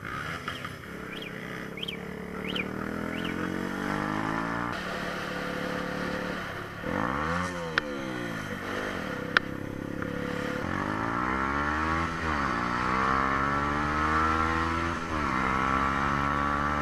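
Motorcycle engine running as it is ridden on the road, its pitch dropping and climbing several times as the bike slows and accelerates. Two sharp clicks sound near the middle.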